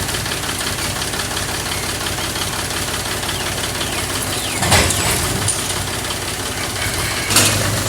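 Tractor diesel engine running steadily, with two sudden louder noisy swells, one about five seconds in and one near the end.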